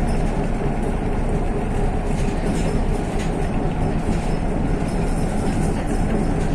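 MAZ-103 city bus under way, heard from inside the passenger cabin: a steady rumble of engine and road noise, with a few faint rattles.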